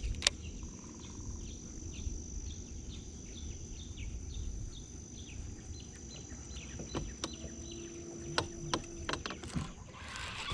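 Open-air ambience on the water: a steady low rumble under a constant high whine and rapid, repeated short chirps from birds or insects, with a few sharp clicks in the second half.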